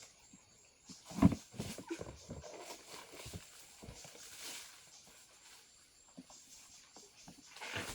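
An animal call, loudest about a second in, followed by a few scattered knocks.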